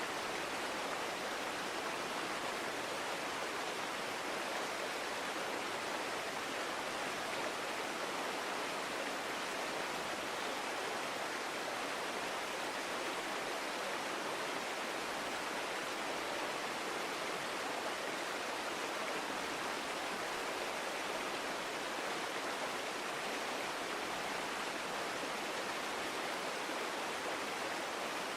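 Forest stream flowing over rocks, a steady rushing murmur of water with no breaks or changes.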